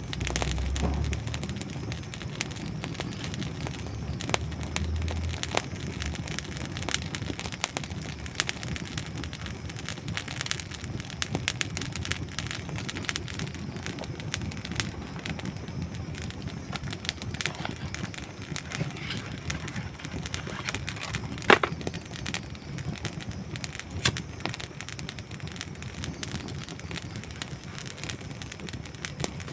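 Wood campfire burning with a steady low rush, dry logs crackling and popping throughout; one loud sharp pop about three quarters of the way through.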